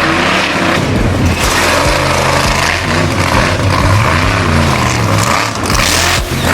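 Loud racing-vehicle engines revving up and down repeatedly over a dense roar.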